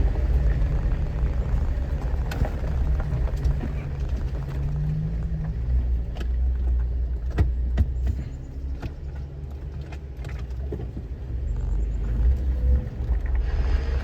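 Jeep's engine running low and steady as it crawls over a rough, washed-out trail, with scattered sharp knocks and rattles from the bumpy ride; it eases off a little in the middle and picks up again near the end.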